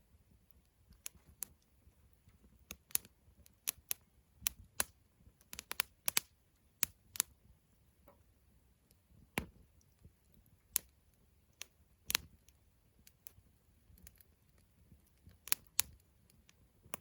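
Wood campfire crackling: irregular sharp pops and snaps, some close together in quick clusters, others a second or more apart.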